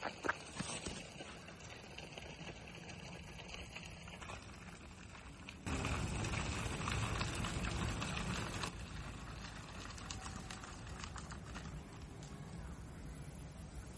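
Footsteps of a person walking on an outdoor path, light and irregular. A louder rushing noise starts suddenly about six seconds in and lasts about three seconds.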